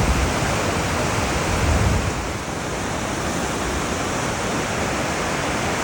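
Whitewater rapid on a river rushing steadily, a dense even roar of moving water, a little heavier in the low end for about the first two seconds.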